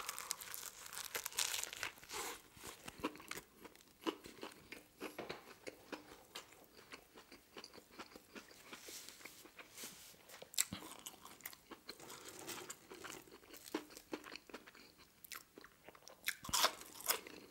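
Close-up biting and chewing of a deli cold-cut sandwich on a soft roll, with wet mouth clicks and small crunches in an irregular run, louder for a moment near the end.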